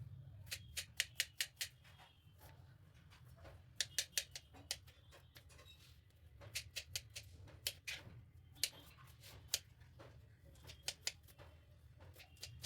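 Kitchen knife tapping on a cutting board as fruit is chopped: quick runs of sharp taps, a few a second, broken by short pauses.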